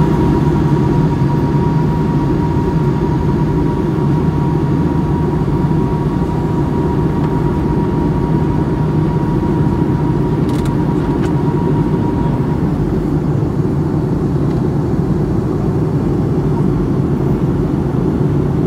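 Airliner cabin noise in flight: a loud, steady, even drone of the engines and airflow, with a faint thin whine that fades out about two-thirds of the way through.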